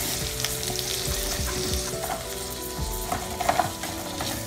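Corn kernels frying in butter with diced onion and garlic in an aluminium saucepan: a steady sizzle, with small scrapes and clicks as a wooden spoon stirs them.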